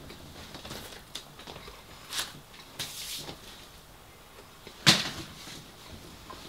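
Close-miked chewing and mouth sounds of a person eating a burger: several short crackly smacks, then a sharp, louder click about five seconds in.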